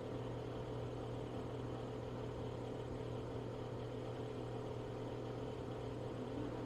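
Steady electrical hum with a low buzz and even hiss: the background room tone picked up by the stream's microphone.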